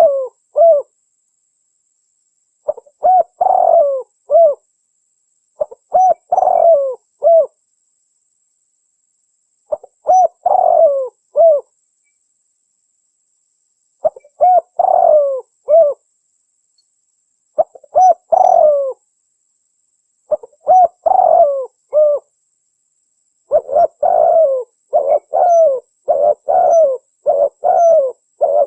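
Spotted dove (tekukur) cooing: short phrases of a few rising-and-falling coo notes repeated every three to four seconds, coming faster and closer together over the last few seconds. It is a recorded lure call for drawing in wild spotted doves.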